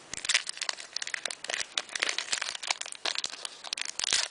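Foil Pokémon trading card booster pack wrapper crinkling as it is handled and worked open: a dense run of sharp crackles, with a louder burst near the end.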